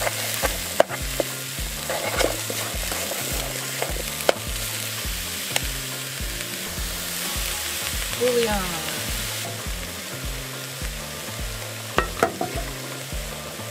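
Chopped vegetables sizzling in a collapsible camp pot on a small gas-canister pocket stove while a spatula stirs them, with scattered scrapes and clicks. The sizzle thins out about nine seconds in.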